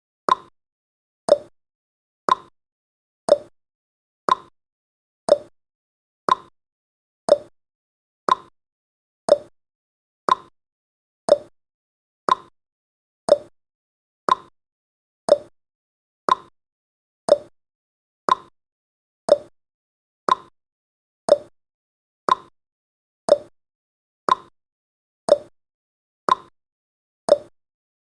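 Countdown timer's tick sound effect: a short, plopping tick once a second, each dying away quickly, marking off the seconds.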